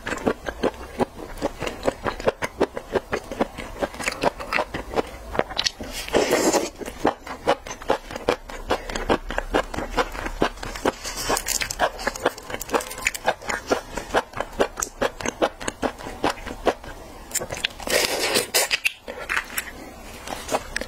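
Close-miked chewing of raw shellfish and shrimp sashimi: a fast, steady run of wet mouth clicks and smacks, with a few longer, louder stretches.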